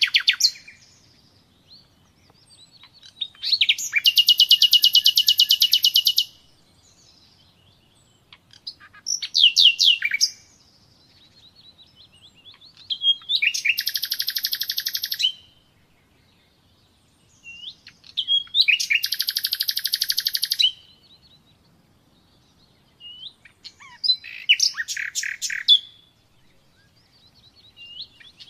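Common nightingale singing: five phrases of fast repeated notes, trills and whistles, each lasting one to three seconds, with pauses of two to three seconds between them.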